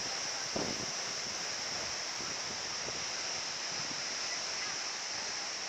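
Waterfall rushing with a steady roar of falling water.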